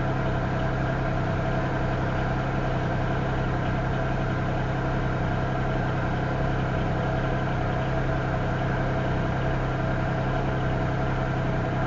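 An engine idling steadily: a constant low hum that does not change.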